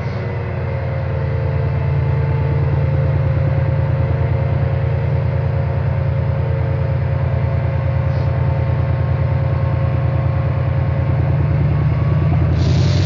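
Class 68 diesel locomotive's engine running under power, a loud, steady, deep pulsing rumble that grows louder about a second in. A short burst of hissing comes near the end.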